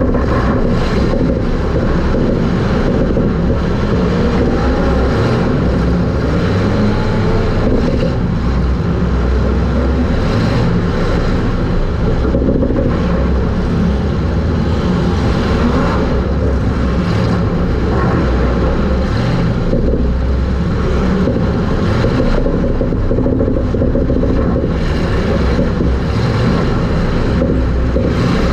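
Super stock race car's engine running at racing speed, heard from inside the car as a loud, steady, low drone.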